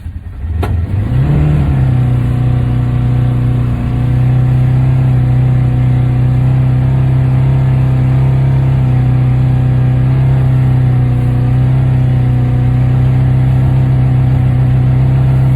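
Polaris Ranger four-wheel-drive UTV engine revving up about a second in, then held at steady high revs as it pushes through deep snow on a hill, after a single short knock at the start.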